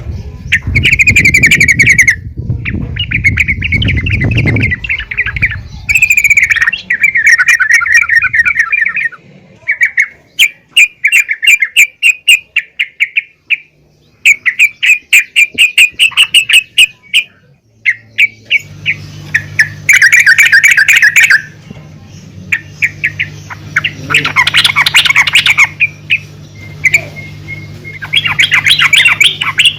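Female yellow-vented bulbul (trucukan) calling in bouts of rapid, chattering notes, each burst lasting one to three seconds with short pauses between. A steady low hum runs under the later calls.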